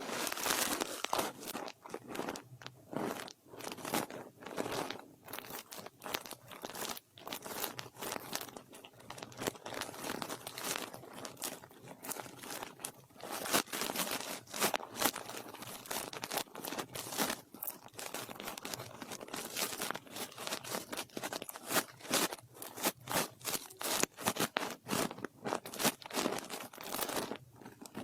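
ASMR brush sweeping and scratching over a microphone in quick, irregular strokes, a dense crackly rustle.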